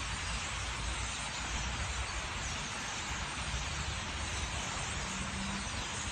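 Steady outdoor background noise: an even hiss with a low rumble beneath it, with no distinct bird calls standing out.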